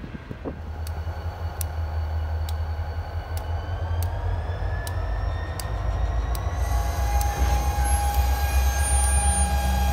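Diesel freight locomotives rumbling low and steady as a freight train creeps past, with light clicks at regular intervals in the first half and a thin steady whine that comes in near the end.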